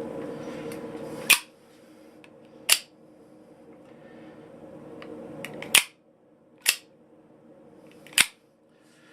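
Sharp snaps of an automatic knife's blade firing and locking, five times at uneven intervals. A steady hum is audible for the first second and a half and stops at the first snap.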